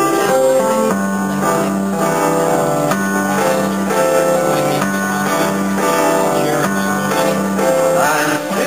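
Instrumental backing music with piano and keyboard, a low note repeating at a steady beat.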